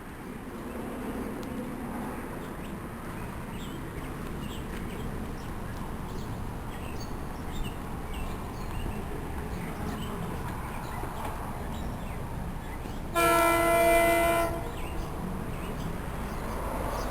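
Train rumbling steadily, with one short horn blast about thirteen seconds in that lasts about a second and a half.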